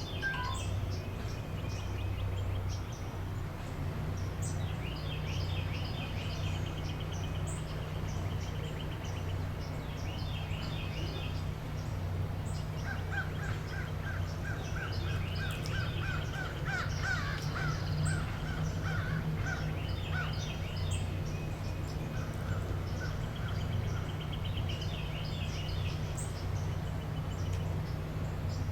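Birds calling in a wading-bird nesting colony: repeated short, rapid chattering calls throughout, with a quick run of repeated notes from about halfway through to two-thirds of the way, over a steady low hum.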